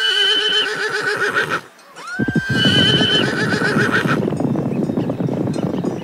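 Horse neighing twice, each whinny about two seconds long, rising then held with a quavering tremble. From about two seconds in, the rapid hoofbeats of a herd of horses galloping run underneath.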